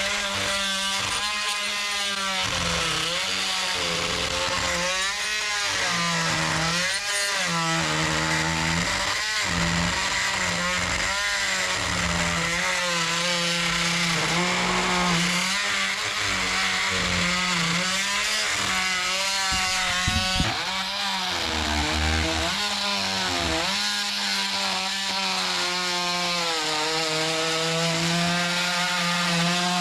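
Oscillating multi-tool plunge-cutting into dry 2x deck lumber: a steady buzz whose pitch sags and recovers again and again as the blade is pushed into the wood and eased off.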